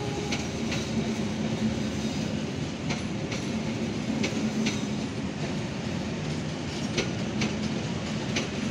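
Kertajaya passenger train's carriages rolling past: a steady rumble with a low hum, and wheels clicking over rail joints about a dozen times at irregular intervals.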